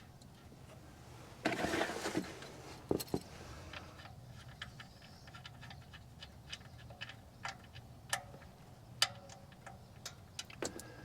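Scattered light clicks and taps, irregularly spaced, with a short scraping rustle about a second and a half in.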